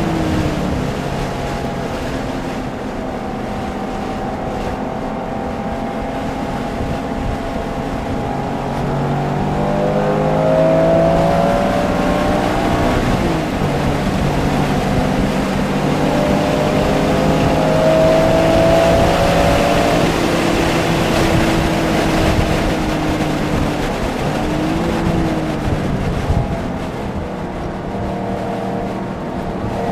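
Porsche engine at racing pace, heard from the cabin, its note climbing under acceleration and dropping for corners and shifts, over steady tyre and road noise.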